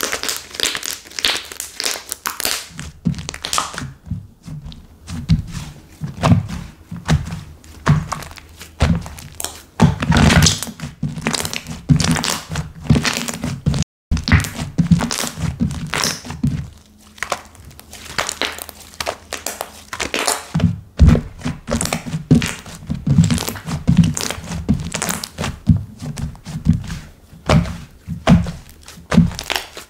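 Slime being squished, pressed and poked by hand, making irregular thick pops and crackles.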